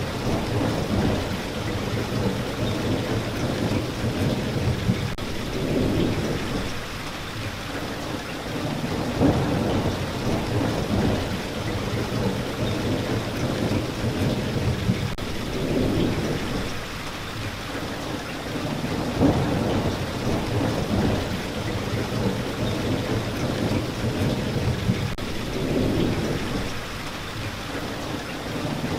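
Steady rain falling, with low rolling thunder that swells and fades every few seconds underneath.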